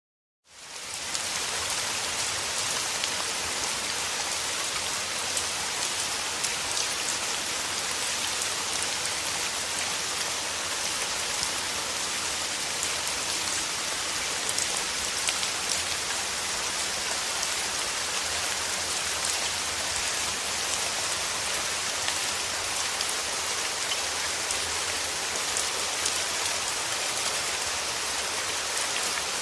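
Steady rain falling, a dense even hiss of drops with fine patter throughout. It rises out of a moment of total silence within the first second, then holds steady.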